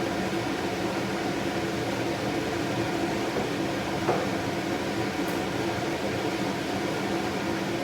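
A steady mechanical whir with a low hum, from a fan or small motor running.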